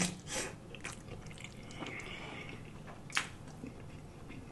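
Close-miked wet chewing of a mouthful of baked spaghetti, soft and squishy, with small mouth clicks and one sharp click about three seconds in.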